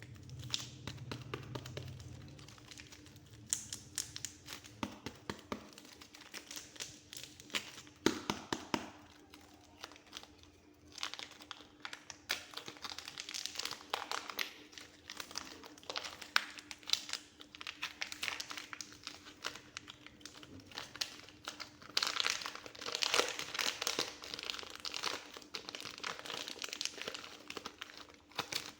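Soft clay being pressed and kneaded by hand close to the microphone: dense runs of small crackling clicks that swell and fade in waves.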